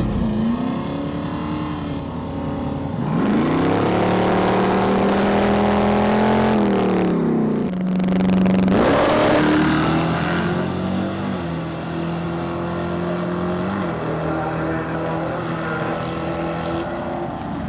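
Chevrolet LT1 Gen II 385-cubic-inch V8 being revved. The pitch climbs about three seconds in and holds for several seconds, drops, and blips once more. It then settles to a steadier run with a couple of small blips.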